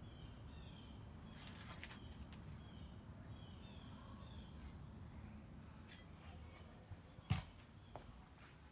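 Faint bird chirps, short repeated calls, over a low steady rumble, with a few light clicks and one sharp knock about seven seconds in.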